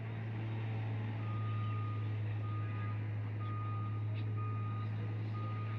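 A vehicle's reversing alarm beeping about once a second, starting about a second in, over a steady low engine hum.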